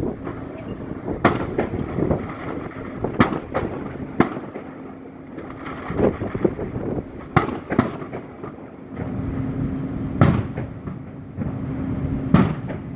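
Aerial firework shells bursting overhead: a string of sharp booms every second or two, each trailing off in an echoing rumble.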